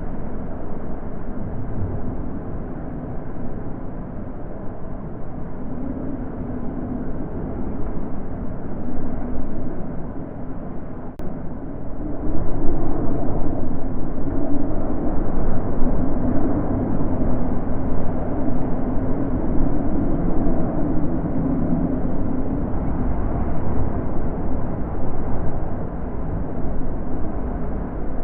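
Wind blowing in gusts: a low rushing noise that swells and eases, growing louder about twelve seconds in.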